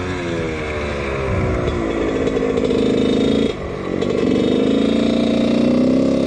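1999 Husqvarna CR125's two-stroke engine revving. The pitch falls at first, then climbs, drops briefly about three and a half seconds in, and rises again.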